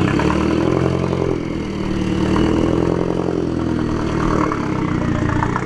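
A car engine running at low revs, its pitch swelling slightly and settling back through the middle.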